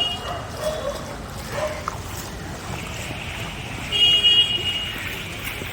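Vehicle horn honking: a brief toot at the start and a second honk about four seconds in, lasting under a second, over steady street traffic noise.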